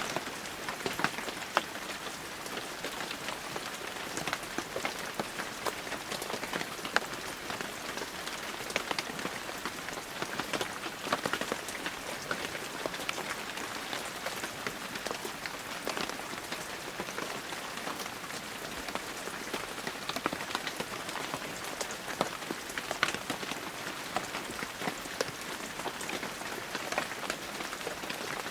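Steady heavy rain falling, with many close individual drops striking a surface.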